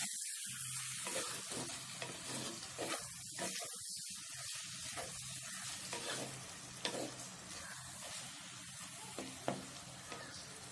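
Mushrooms, onions and green peppers sizzling as they fry in a clay pot, stirred round with a spatula that scrapes the pot's sides, with a few sharp strokes of the spatula against the clay.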